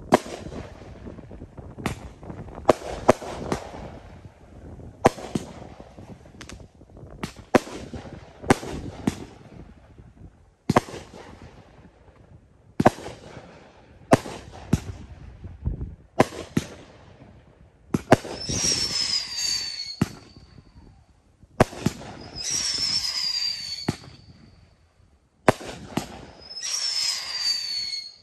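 Consumer 1.4G firework cakes firing: a string of sharp bangs as shots launch and burst, some followed by a short crackle. In the second half come three long hissing runs, each with a whistle falling in pitch.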